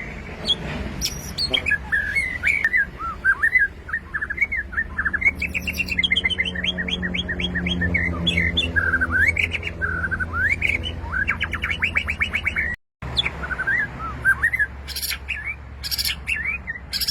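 White-rumped shama (murai batu) singing: a long run of varied whistled phrases and rapid trills, over a steady low hum. The sound cuts out for a moment near the end.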